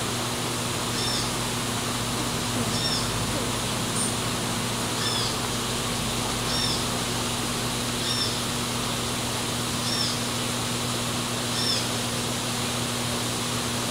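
A bird repeating a short, high call about every one and a half to two seconds, over a steady hiss and low hum.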